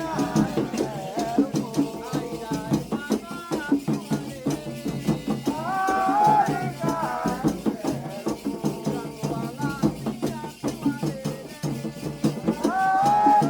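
Candomblé ritual song for Xangô: voices sing a phrase that comes back about every six seconds, over rattles shaken in a steady rhythm and drums.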